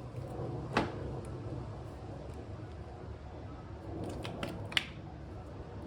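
A few sharp metallic clicks and knocks as a greased part is worked onto the splined end of an ATV rear axle: one about a second in, then several close together near the end, over a low steady hum.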